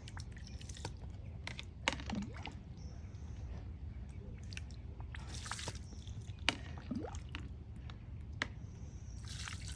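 Wet sand squishing and dripping in a homemade pipe toilet, with scattered small clicks and knocks over a steady low hum.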